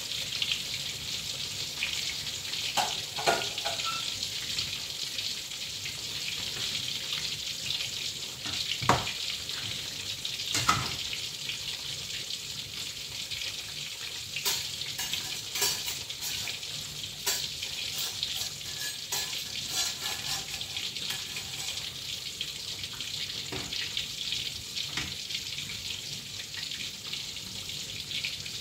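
Food frying in hot cooking oil: a steady sizzle, broken by a few sharp knocks and clicks, mostly in the first half and middle.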